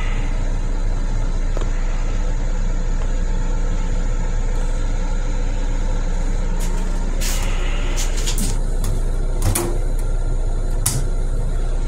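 Steady running rumble inside a Long Island Rail Road M7 electric railcar, with a deep, constant hum underneath. In the second half come several short, sharp clicks and squeaks.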